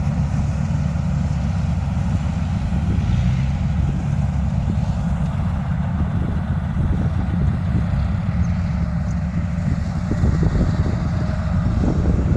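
Engine of farm harvest machinery running steadily with a low rumble, with a few short knocks near the end.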